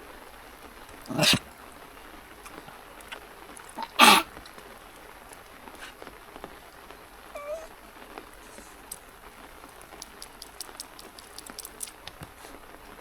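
Jack Russell terrier giving two short, sharp barks about a second apart from the first at roughly a second in, then a brief high whine, vocalising impatiently while made to sit and wait. Faint ticks of rain drops come near the end.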